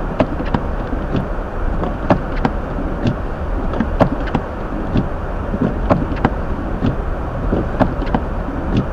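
Inside the cabin of a Hyundai Elantra driving on a snowy road: a steady rumble of tyres and road noise, with scattered sharp clicks and knocks.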